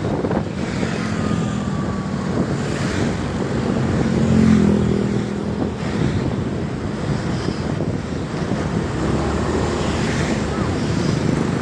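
Diesel truck engine running as a truck loaded with sengon logs passes on the road, the engine note swelling to its loudest about four and a half seconds in, with wind buffeting the microphone.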